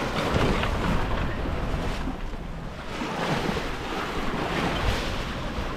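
Wind buffeting the microphone over the wash of water along a sailboat's hull in a lumpy sea.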